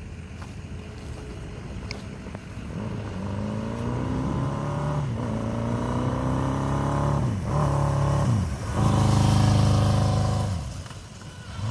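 1981 Honda CB750K's inline-four engine pulling away from low steady running and accelerating, its pitch climbing through the gears with brief dips at about three gear changes. It is loudest shortly before the throttle is rolled off near the end.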